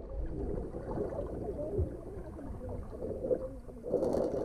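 Pool water sloshing and gurgling close to the microphone, a little louder about four seconds in.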